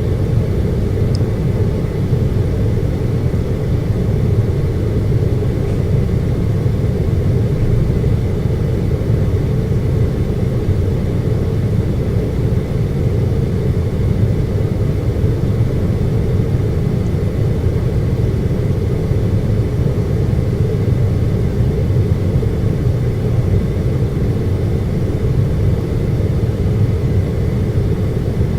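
Air conditioner running with a steady, unchanging hum, its sound mostly low with a faint high tone above it.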